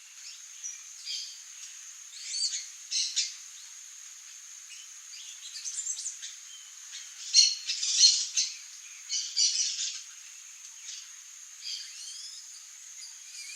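Songbirds giving short, sharp calls and squeaky chirps in scattered bursts, busiest around the middle, over a steady high-pitched tone.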